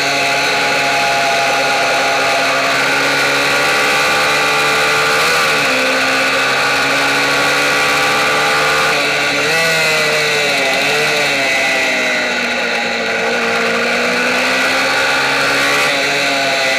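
MiniGP race bike's small engine, recorded from the bike itself, running at high revs. Its pitch dips and climbs back up about five seconds in, again around ten to twelve seconds, and once more near the end.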